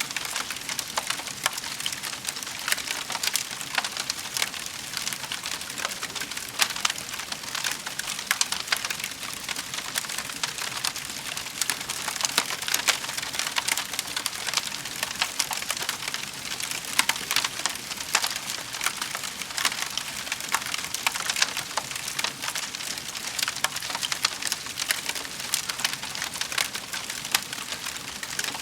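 Wood fire crackling in a fireplace, a steady stream of small pops and snaps.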